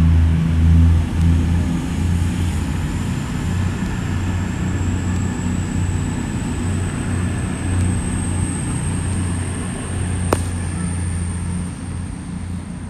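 Electric passenger train passing at speed, with a thin high whine that climbs slowly in pitch through the passage. A low, gusty wind rumble on the microphone runs underneath, and there is a single sharp click about ten seconds in.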